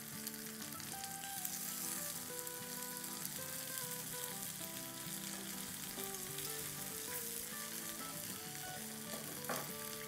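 Chicken sausage patties sizzling steadily in hot oil in a nonstick frying pan, with a brief tap near the end. Soft background music plays underneath.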